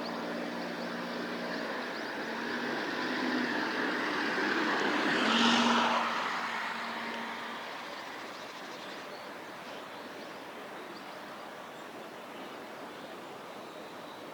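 A passing vehicle's noise swells to a peak about five and a half seconds in, then slowly fades away.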